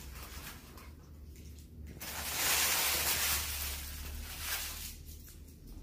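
A cat hissing: one breathy hiss starts about two seconds in, lasts a little over a second and fades, over a low steady hum.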